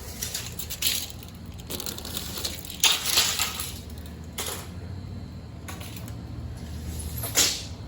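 Handling noise: a string of short rustling and scraping bursts, the loudest about three seconds in and near the end, over a faint low steady hum.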